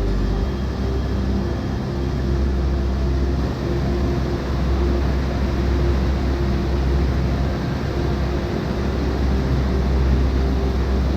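Waterfall rushing steadily: a constant, deep wash of falling water with no break.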